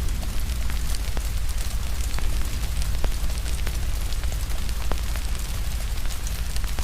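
Wood fire crackling with irregular sharp pops, over steady rain and a deep, constant low rumble.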